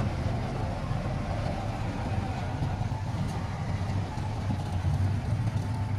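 Heavy diesel engine of earthmoving equipment running steadily with a low rumble.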